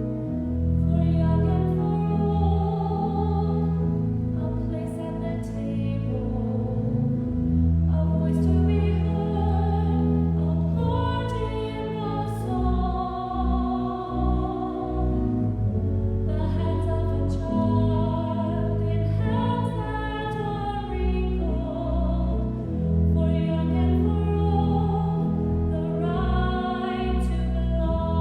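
A hymn sung with pipe or electronic organ accompaniment. A singing voice with vibrato runs over held organ bass notes.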